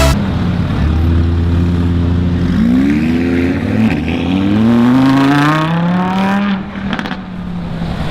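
Car engine accelerating, its note climbing in pitch twice with a drop between, as through a gear change. About six and a half seconds in it falls back and eases off.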